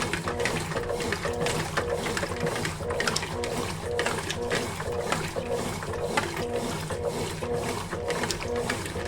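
Consul Facilite CWG11 top-loading washing machine agitating a load, its motor and drive whirring in a quick pulsing rhythm of about three beats a second, with rapid clicking.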